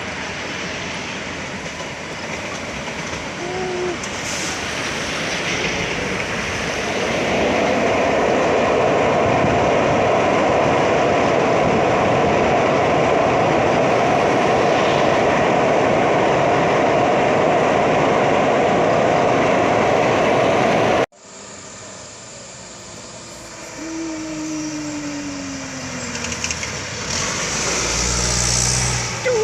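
Heavy truck engines and road noise, loud and steady, with no clear pitch, for most of the clip. After an abrupt cut about two-thirds of the way through, a quieter engine sound follows, its tone falling in pitch as the revs drop, and falls again near the end.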